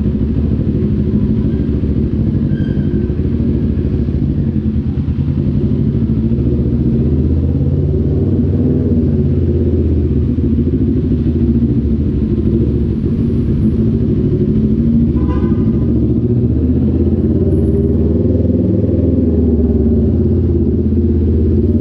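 CF Moto NK400's two-cylinder engine running loudly at fairly steady revs, with small rises and falls. A brief higher-pitched tone sounds over it about fifteen seconds in.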